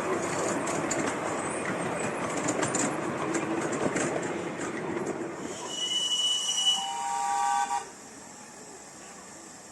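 A steam-hauled train running past with rail clatter, then its whistle sounds: a high, shrill note about six seconds in, followed by a lower note. The whistle cuts off suddenly near the end, leaving a much quieter background.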